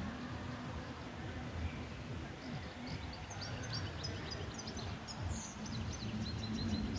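Goldfinch singing a rapid twittering string of high chirps that gets busy about a third of the way in, with a short run of repeated notes near the end. Under it is a steady low background rumble.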